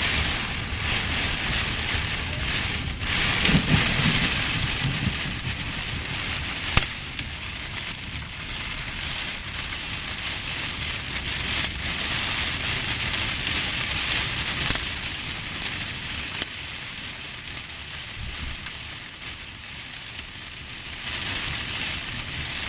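Heavy rain pouring down in a steady hiss, with a low rumble about four seconds in and a few sharp taps.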